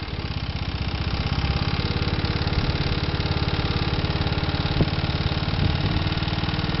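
Honda Today kei car's three-cylinder engine idling steadily with a rattling clatter ('kara kara kara'), an abnormal noise from the engine. A sharp click stands out about five seconds in.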